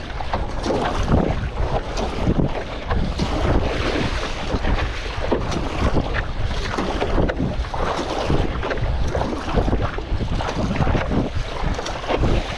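Strong wind buffeting the microphone over choppy sea water, with irregular splashing and slapping of water around a stand-up paddleboard.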